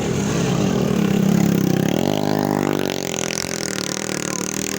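Motorcycle engine running and being revved: its pitch sags, then climbs sharply about two seconds in and holds high.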